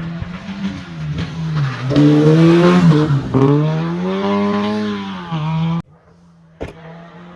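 Rally car engine revving hard, its pitch rising and falling several times. About six seconds in, the sound cuts off abruptly to a faint engine, with a single sharp click just after.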